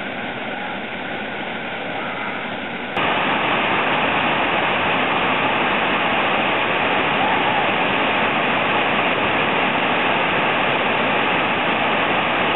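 Waterfall: a steady rush of falling water that becomes abruptly louder about three seconds in.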